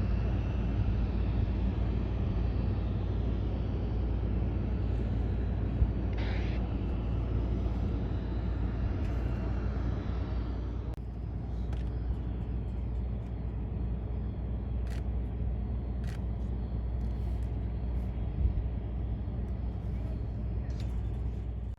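HondaJet's twin GE Honda HF120 turbofan engines running steadily: a low rumble with a faint whine over it. About halfway through the higher part of the sound drops away.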